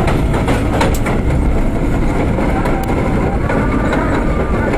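R32 subway train running along the track: a steady rumble with a few sharp clicks from the wheels and rails.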